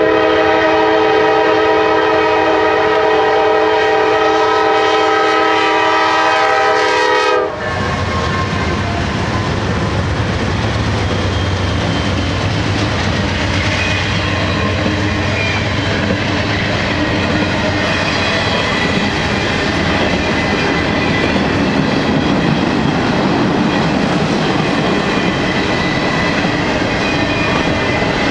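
Lead GE locomotive's air horn sounding one long, multi-note chord that cuts off after about seven seconds. Then the three-unit GE diesel consist rumbles past close by, followed by a long double-stack intermodal train rolling by with steady wheel clatter on the rails.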